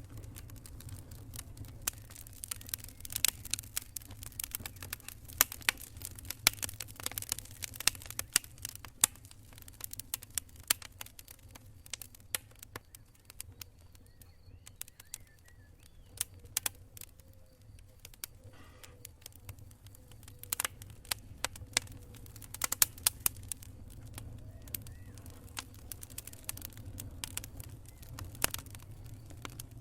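Wood campfire crackling: irregular sharp pops and snaps, thicker in some stretches and sparser in others, over a steady low rumble.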